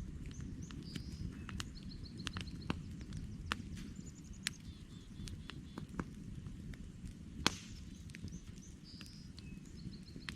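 Campfire crackling, with scattered sharp pops over a low steady rumble of the burning wood; the loudest pop comes about seven and a half seconds in. A small songbird's short, rapid high chirp series sound several times.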